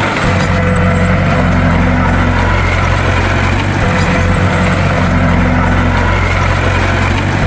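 Bulldozer's diesel engine running steadily with a deep, even hum, and a slightly higher note that comes and goes every few seconds.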